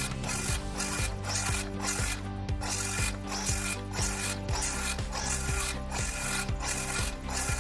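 Circular saw with a 7-1/4-inch blade cutting treated 2x6 lumber, a rasping cut broken into a quick repeating pattern about twice a second, with music underneath.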